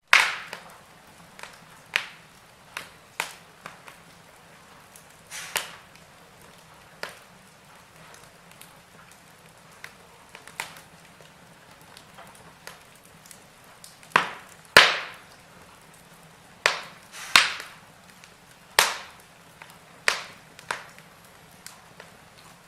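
Burning logs crackling in a fireplace: irregular sharp pops and snaps over a soft steady hiss, with the loudest pops about two-thirds of the way through.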